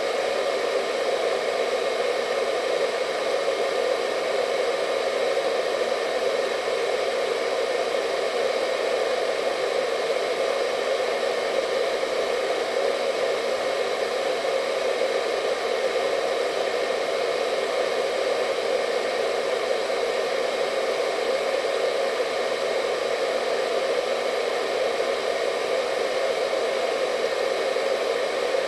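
Hair dryer running steadily: an even rushing noise, strongest in the low middle, with a faint high whine from the motor.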